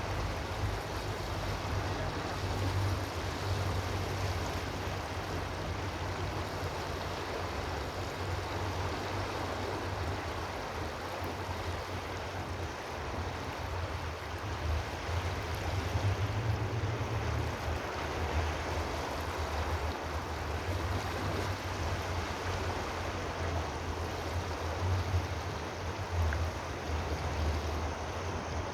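Steady rushing of running water, like a stream, with a low rumble underneath that swells and eases.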